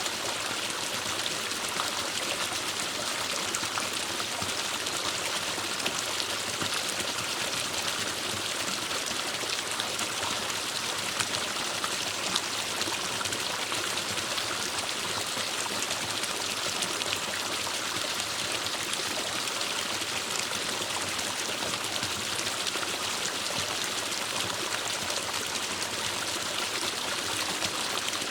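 Forest stream running steadily, an even rushing of water with no let-up.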